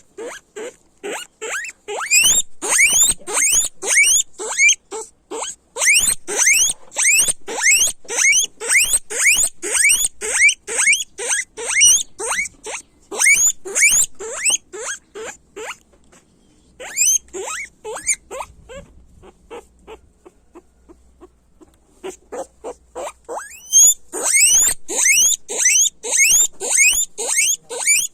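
Guinea pigs squealing loudly: a rapid string of short, rising squeals, several a second. The calls thin to a few quieter ones for several seconds past the middle, then come thick again.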